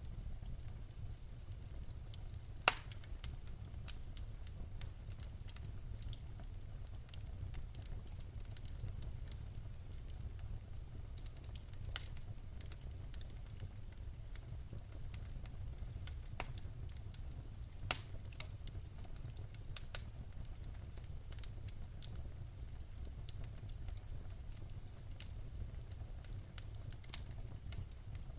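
Wood fire burning in a fireplace: a steady low rumble of the flames with irregular sharp crackles and pops from the burning logs, two of them clearly louder, about three seconds in and near eighteen seconds in.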